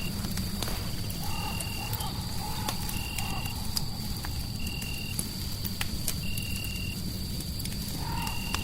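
Fireplace crackling with scattered sharp pops over a low rumble, layered with a steady high whine and a short high note that repeats about every second and a half. A wavering mid-pitched animal-like call comes in about a second in and again near the end.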